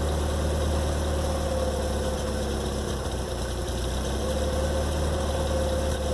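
Truck engine idling steadily through a Kawasaki muffler fitted with a throttle valve: an even low rumble with a constant tone above it and no revving.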